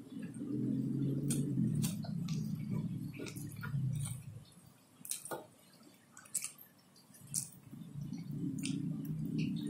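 Close-up eating sounds of fried catfish and rice eaten by hand: a low mouth rumble of chewing with scattered sharp smacks and clicks. The chewing drops to a quieter stretch in the middle, broken only by a few clicks, then picks up again near the end.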